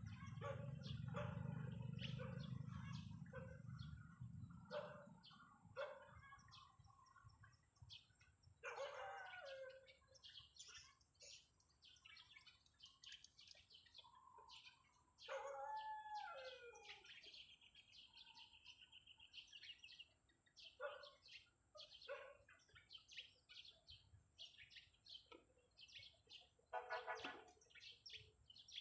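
Birds chirping and calling: many short chirps, a few longer gliding calls and a brief trill, heard faintly. A low rumble sits under the first few seconds.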